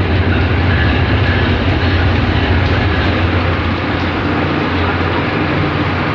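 Storm with heavy rain and wind: a loud, steady noise of rain with a deep, constant rumble underneath.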